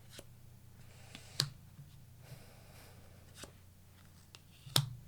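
Tarot cards being handled on a table: soft sliding and rustling with a few sharp taps, the loudest about a second and a half in and near the end, as cards are drawn and laid down.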